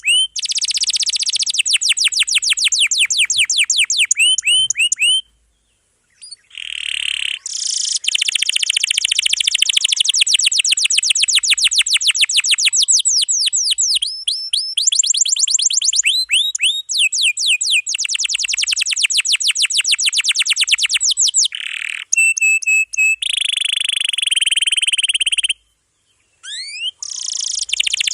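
Domestic canary singing: long, fast rolls of rapidly repeated notes, one trill passing into the next with varied phrases. The song breaks off briefly twice, about six seconds in and near the end.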